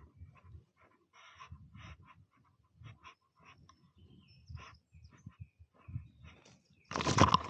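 Footsteps crunching and rustling on the forest floor: soft, irregular rustles and cracks, then a louder crunch near the end.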